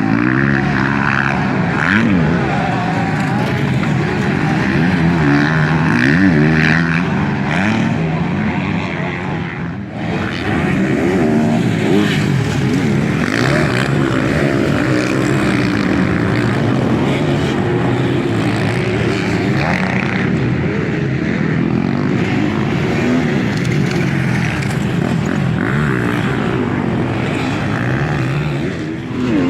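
Several motocross motorcycles racing, their engines revving up and down as the riders work the throttle and shift gears.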